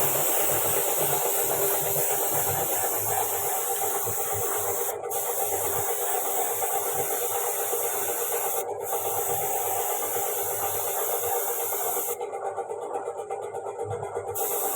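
A steady hissing, rasping noise, briefly broken twice.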